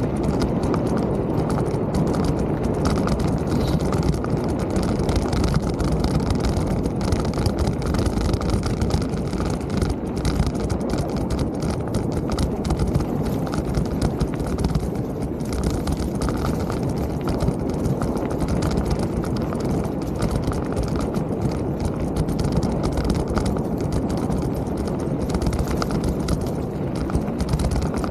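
Mountain bike rolling along a trail: a steady rumble of tyres on the ground, with constant small rattles and clicks from the bike.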